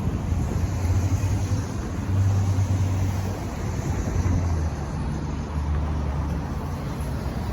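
Freight train of autorack cars rolling past close by: a steady low rumble from the wheels and cars, rising and falling slightly.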